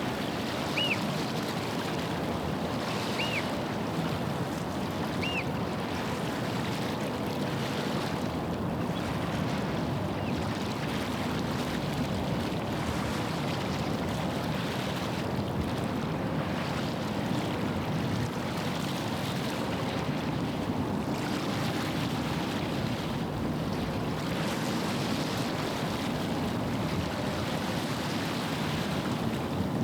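Steady wash of estuary water and wind with a low rumble underneath; three short high chirps in the first six seconds.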